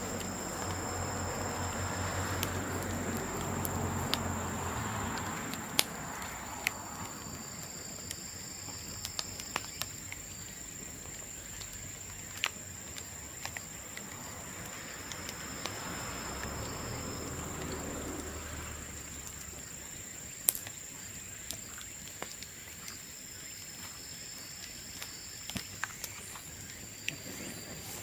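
Burning bamboo in an open bonfire crackling, with irregular sharp pops, a few louder ones standing out. A low rumble swells up twice, and a steady high-pitched tone runs underneath.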